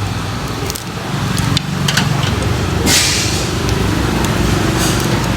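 A motor vehicle's engine running close by, with a short hiss about three seconds in and a few sharp clicks over it.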